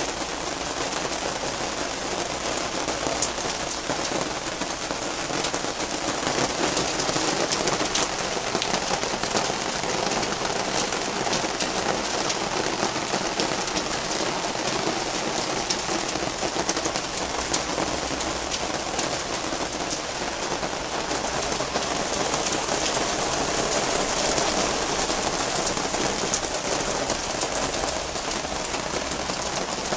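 Heavy rain pouring down in a steady downpour: a dense hiss laced with the sharp ticks of individual drops striking.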